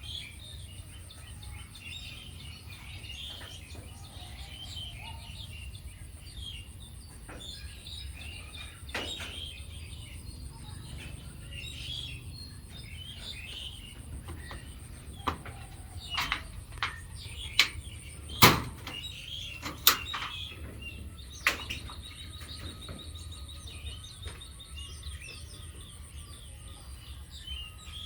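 Small birds chirping in short, repeated high calls over a steady high hiss, with a few sharp clicks or taps past the middle, the loudest one standing out.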